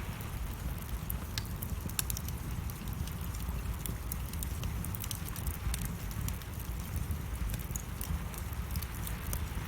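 Wood fire burning in a fireplace, crackling: irregular sharp snaps and pops over a steady low rumble.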